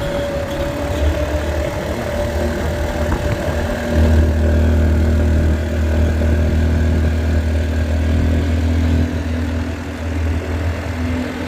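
Motorcycle engine running steadily during a ride, growing louder about four seconds in for several seconds before easing back.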